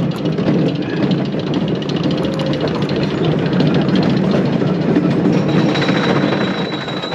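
Wooden roller coaster train rattling along its track with a dense, rapid clicking. A steady high whine joins about five and a half seconds in.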